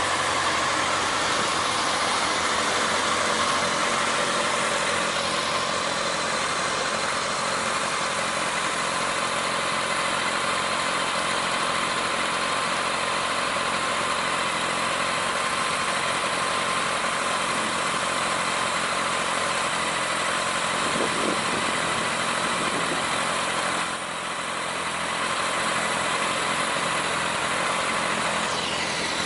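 Honda CB1100's air-cooled inline-four engine idling steadily.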